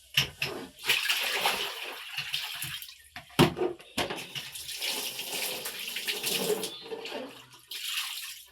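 Water splashing and sloshing as wet clothes are worked in a washing basin, with a few sharp knocks.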